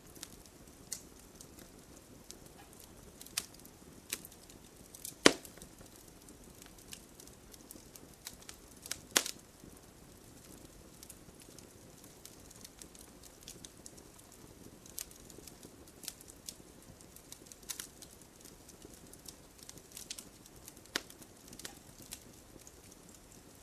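Wood campfire crackling: irregular sharp pops and snaps over a faint, steady hiss of burning, with two louder pops about five and nine seconds in.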